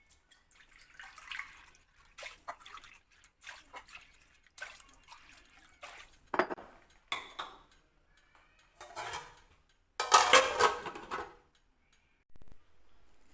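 Water splashing and dishes and pots clattering in a series of short, irregular bursts, the loudest and longest about ten seconds in.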